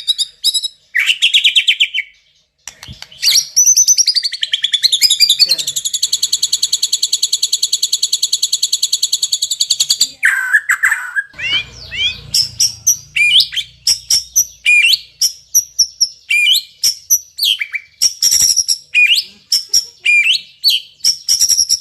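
White-rumped shama (murai batu) singing loudly in a varied song: whistled sweeping phrases, then a long rapid trill of evenly repeated notes from about six to ten seconds in, then a string of short sharp up-and-down notes.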